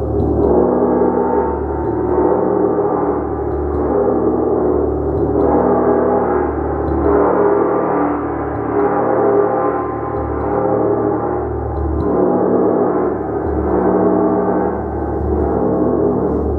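A gong played continuously: a dense, sustained wash of many overlapping tones that swells in loudness about every two seconds as it is struck again.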